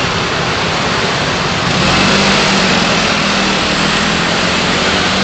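Steady engine and road noise of a car being driven, with a low hum that comes in about two seconds in and holds.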